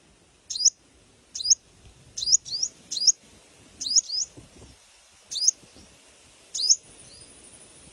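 A sogon songbird chirping: short, high, upward-sweeping chirps, some single and some in quick pairs, about one a second.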